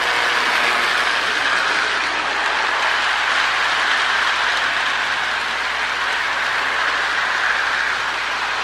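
Marx E7 toy train locomotive running on its track, hauling a nine-car train. Its early double-reduction motor and the gearing on the wheel flanges make a steady mechanical running noise, along with the wheels rolling on the rails.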